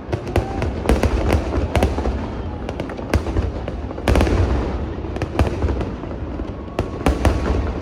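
Fireworks display going off: many sharp bangs and crackles, some in quick clusters, over a continuous low rumble.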